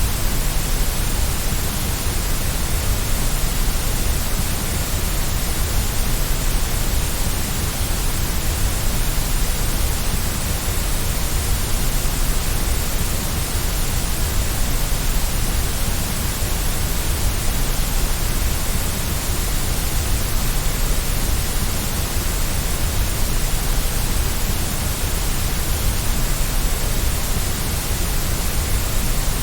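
Steady white noise for a baby's sleep: an even, unbroken hiss that does not change.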